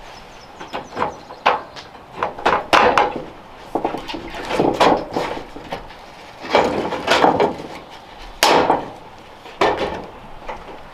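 Irregular knocks, clatters and scrapes of hard objects being handled, a dozen or so over several seconds, with one sharp knock about eight and a half seconds in the loudest.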